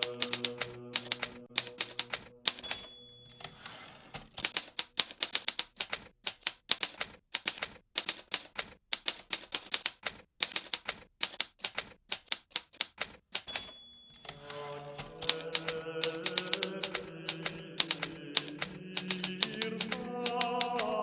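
Hermes Baby portable typewriter being typed on at a steady pace, a fast run of key strikes. A short ring comes twice, a few seconds in and again past the middle, each followed by a brief rush of sound: the end-of-line bell and carriage return.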